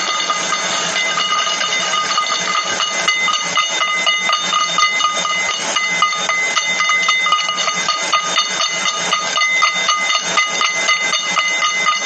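Rapid, irregular clicking, several clicks a second and growing denser about three seconds in, over a steady high-pitched tone.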